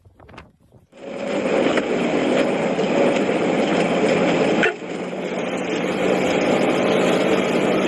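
Steady road-traffic noise: vehicle engines running. It starts about a second in and drops briefly about two-thirds of the way through before carrying on.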